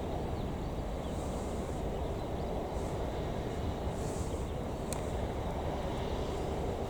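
Boeing 747-400 jet engines running steadily at a distance: an even low rumble with a faint steady hum, and one sharp tick about five seconds in.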